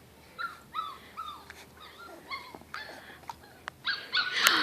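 Portuguese Water Dog puppy whimpering and yipping in a string of short, high cries that fall in pitch, a couple a second, with a louder rush of noise near the end.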